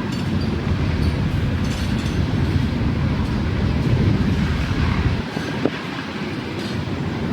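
Strong wind gusting across the microphone as a steady low rumble, easing slightly about five seconds in.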